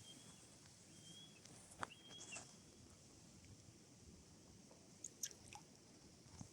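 Near silence, with three faint short high whistles in the first two and a half seconds and a few scattered soft clicks.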